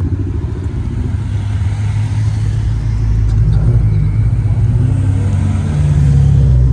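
A vehicle engine running close by, low and rumbling, growing louder and rising a little in pitch through the second half.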